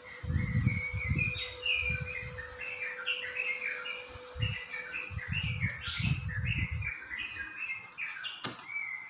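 Small birds chirping in quick repeated notes, with low muffled thuds coming in clusters and one sharp click near the end.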